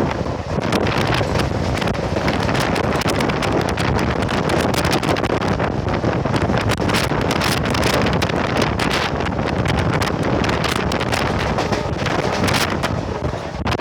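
Heavy wind buffeting on the microphone over the running of a WDM-3A ALCO diesel locomotive at speed, its engine in top notch.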